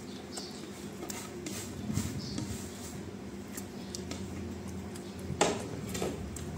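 A man chewing food close to the microphone: soft, irregular wet mouth clicks and smacks, with a louder smack about five and a half seconds in, over a steady low hum.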